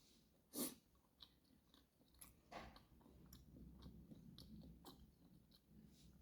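Faint, close chewing of food with small wet clicks, and a louder bite or mouth sound about half a second in.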